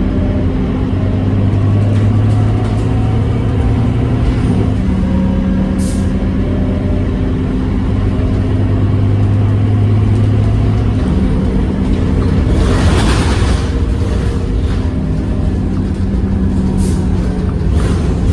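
Scania K230UB bus's five-cylinder diesel engine running in service, its note swelling and easing as the bus pulls and lets off. About two-thirds of the way through comes a burst of air hiss from the bus's pneumatic system, typical of the air brakes.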